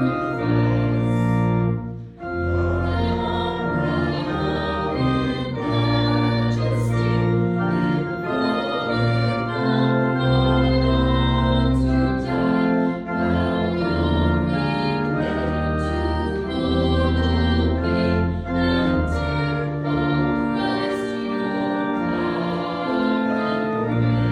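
Church organ playing a hymn in sustained chords, with voices singing along. There is a brief break about two seconds in.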